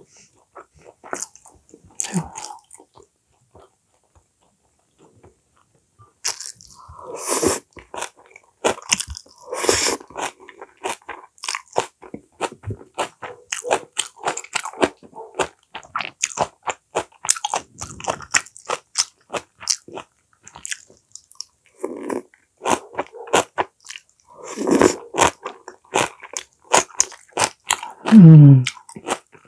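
Close-miked chewing of seasoned blanched lettuce (sangchu namul): a quick, dense run of wet smacking and crunchy clicks that starts after a few nearly quiet seconds. Near the end there is a short hummed "mm" that drops in pitch.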